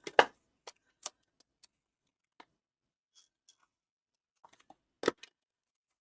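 Paper squares and card being handled on a tabletop: scattered light taps and clicks, with the loudest a moment after the start and another about five seconds in.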